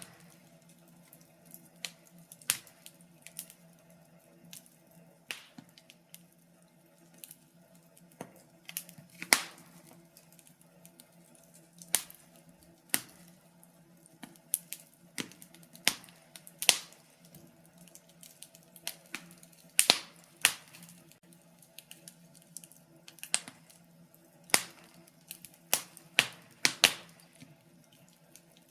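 Wood fire crackling in a fireplace: irregular sharp pops and snaps, one or two a second, over a faint steady low hum.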